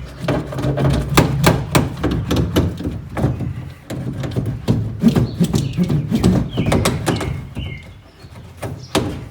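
Foil-backed sound-deadening mat being pressed by hand onto the car's sheet-metal panel to make it stick: irregular crinkling clicks and knocks with a low rumble underneath.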